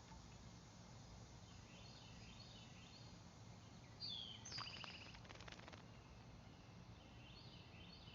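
Wild songbirds calling faintly, a short run of falling high notes repeated a few times, over a low steady hum. About four seconds in comes a closer, louder bird call with a quick patter of clicks lasting about a second and a half.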